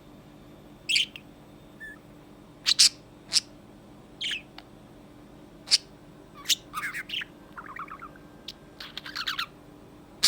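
Pet budgerigar chirping: short, sharp chirps spaced irregularly, with quick bursts of chatter about two-thirds of the way in and again near the end.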